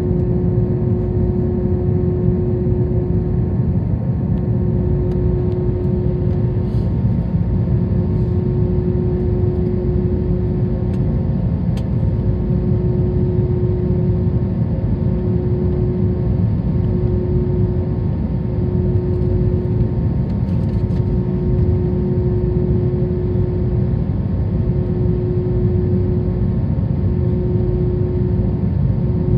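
Airbus A321 cabin noise after landing: the engines running with a steady low rumble and a steady hum, as the plane taxis. A few faint clicks sound now and then.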